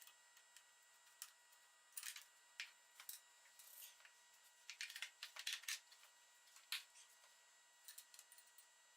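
Faint, irregular clicks and light metallic taps of hand tools and small parts being handled during work on a lawn tractor's carburetor, with a quick flurry of clicks about five seconds in.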